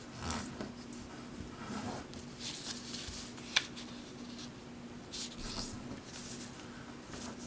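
Sheet of origami paper rustling and being creased by hand as its corners are folded in to the centre, with soft scattered rustles and one short sharp crease snap about three and a half seconds in.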